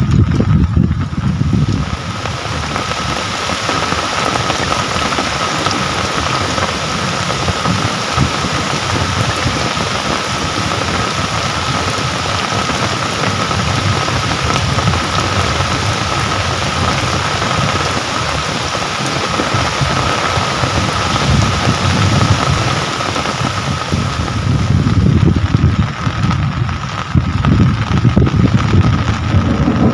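Steady heavy rain, a dense even hiss with a faint steady high tone running through it. A low rumble swells at the very start and again over the last several seconds.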